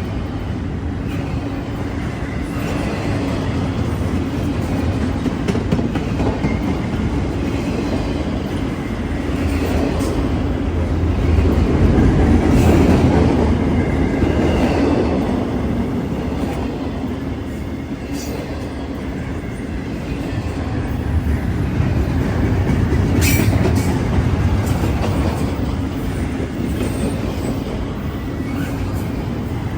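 Train rolling past on the rails: a continuous rumble of wheels with clickety-clack over the rail joints, swelling louder about twelve seconds in and again a little past twenty seconds, with a few sharp clicks near the second swell.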